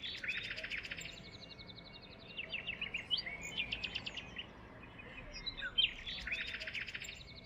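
Small songbirds singing, with bright chirps and fast trills repeating in bursts about every three seconds over a steady outdoor hiss.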